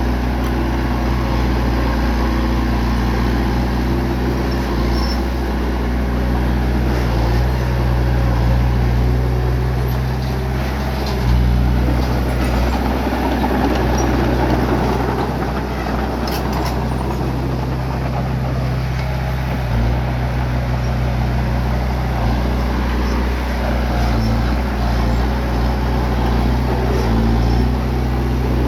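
Bulldozer's diesel engine running steadily, with a few scattered knocks around the middle as it pushes rock and dirt.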